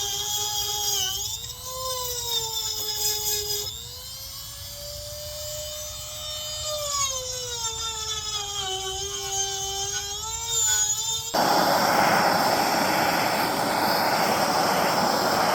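A high-speed rotary carving tool whining as it cuts into the log wood, its pitch dipping and rising as the bit bites and eases off. About eleven seconds in it gives way abruptly to a steady, louder rushing noise.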